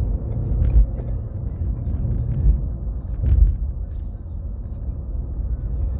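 A 2017 Ford Fusion's four-cylinder engine and road noise heard from inside the moving car's cabin: a steady low rumble, with a few brief knocks.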